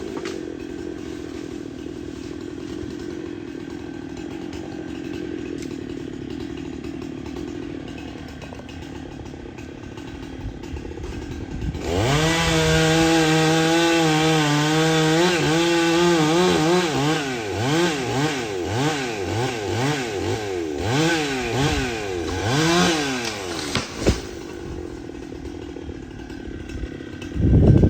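Chainsaw engine running low for about twelve seconds, then opened up to full throttle and held for several seconds. After that it is revved up and down about once a second for several seconds, with a sharp knock near the end and one more brief rev at the very end.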